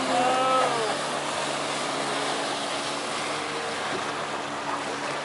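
Sea-Doo jet ski engine running steadily under a wash of water and wind noise. In the first second, a short sliding tone rises and then falls away.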